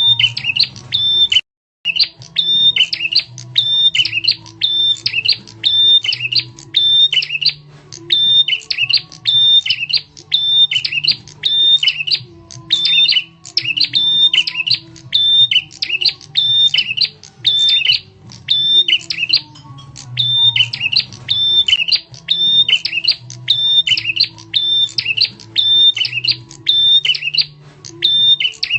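Prenjak tamu, a prinia, calling over and over in a lure recording: loud, sharp chirping phrases at about two a second, with one brief break about a second and a half in. A steady low hum runs underneath.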